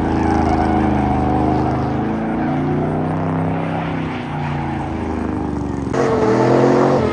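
Truck engines running, holding steady pitches that shift from time to time, with a louder engine coming in suddenly about six seconds in.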